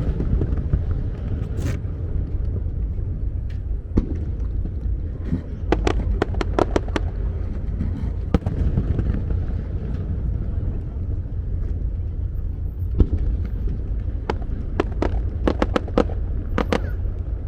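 Aerial fireworks going off over a continuous low rumble, with clusters of sharp crackling pops: one run about a third of the way in and another near the end.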